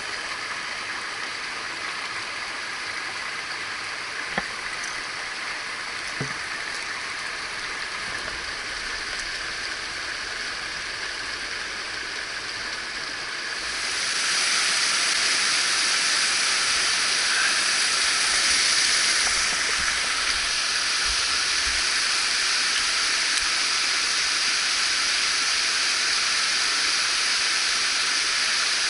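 Mountain stream water rushing over rocks, a steady hiss and gurgle; about halfway through it becomes louder and hissier, as of a cascade or rapids close by. Two faint knocks early on.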